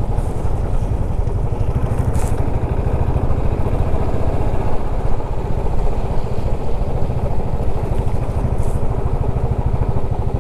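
Motorcycle running steadily on the move, its engine mixed with a dense low rumble.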